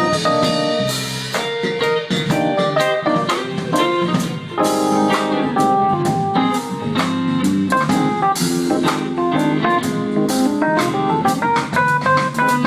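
Live blues-rock band playing instrumentally: electric guitar runs many quick notes over drum kit and bass.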